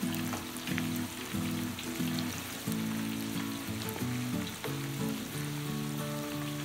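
Plantain slices deep-frying in hot oil: a steady sizzle with scattered crackles and pops. Background music of sustained low notes plays underneath.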